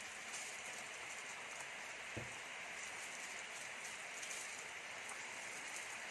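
Faint, steady hiss with a rain-like texture, and a single soft low thump a little over two seconds in.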